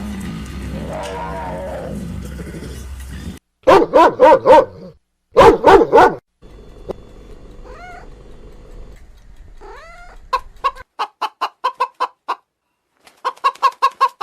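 Chickens clucking: loud groups of short pitched calls, a few single calls, then quick runs of short clucks, about six a second, near the end.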